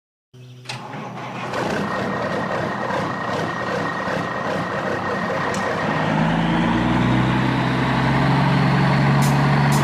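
Truck engine running, growing steadily louder, with a deeper tone coming in about six seconds in.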